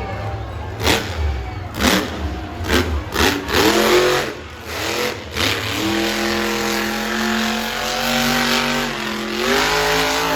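Monster truck engine revving hard in quick rises and falls, with sharp cracks between the revs. From about six seconds in it holds a steady high rev, then climbs again near the end.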